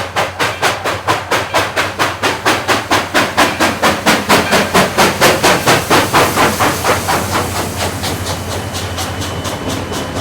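Steam locomotive exhaust chuffing in a fast, even beat of about four to five chuffs a second, loudest around the middle. Near the end the beats blur into the steady rolling of the train, with a thin high tone coming in.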